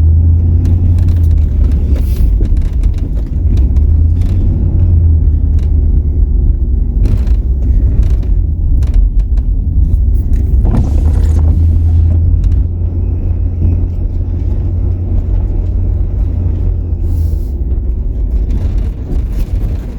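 Truck being driven: a loud, steady low rumble of engine and road noise, with a few scattered light knocks.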